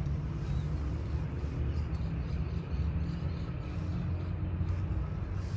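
Steady low rumble of traffic, with no sharp sounds standing out.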